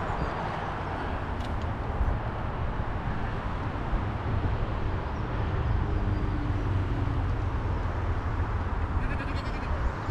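Sheep bleating over a steady rumble of wind on the microphone.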